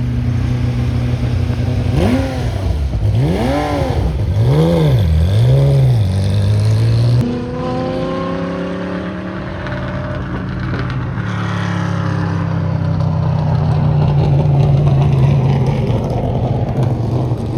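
Race car V8 engines on track, the pitch rising and falling in three quick swells, dropping suddenly about seven seconds in, then running at a steady pitch.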